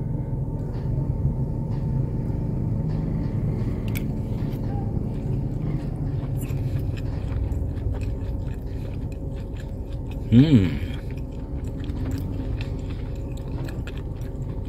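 A person eating beef biryani, chewing, with small scattered clicks, over a steady low rumble. About ten and a half seconds in comes one brief, louder pitched sound that bends up and down.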